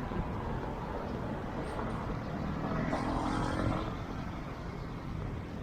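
Street traffic running steadily, with one vehicle passing louder about three seconds in.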